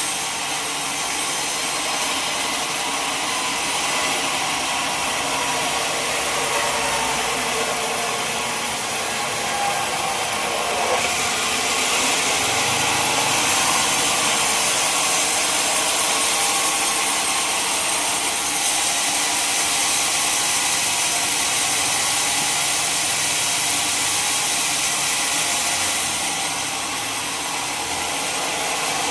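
Sawmill saw cutting through a log, a steady running noise of blade and machine that grows slightly louder through the middle stretch.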